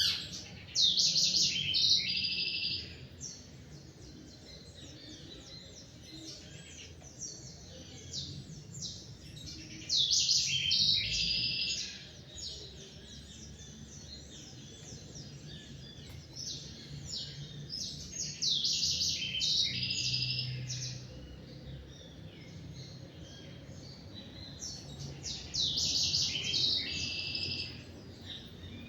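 Songbirds singing. One loud, fast song phrase comes back four times, about every eight seconds, with softer chirps and calls from other birds in between.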